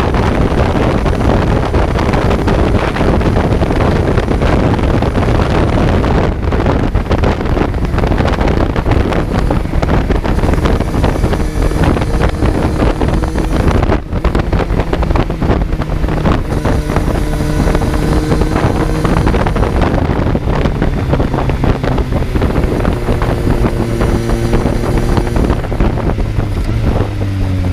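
Kawasaki Z900's inline-four engine running at road speed, heard onboard under heavy wind rush on the microphone. The engine note comes through more clearly about a third of the way in, holds steady with a few steps in pitch, and falls away near the end as the bike slows.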